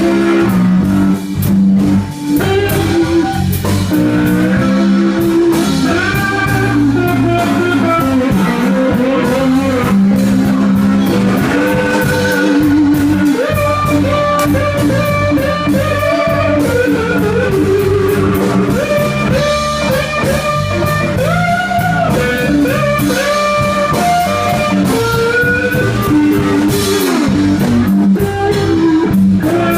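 Live blues band playing a slow blues: a guitar lead with bent, sliding notes over bass guitar and drum kit, with no singing.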